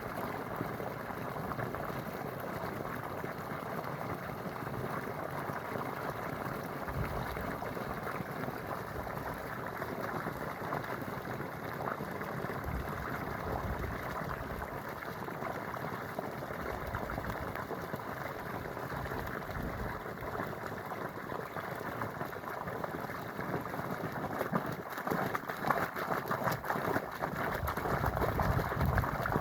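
Running water, a steady rushing and gurgling that grows a little louder and more uneven near the end.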